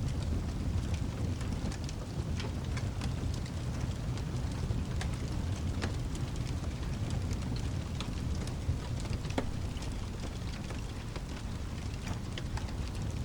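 Rain and fireplace ambience: a steady deep rumble of rain with scattered sharp crackling pops from the fire.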